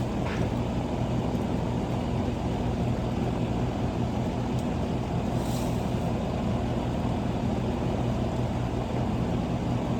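Air-conditioning condensing unit running: a steady mechanical drone with a low, even electrical hum.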